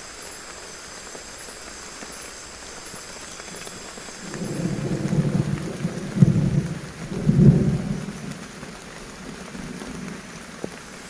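Heavy rain falling steadily, with a low rumble of thunder rolling in about four seconds in, swelling twice and then fading.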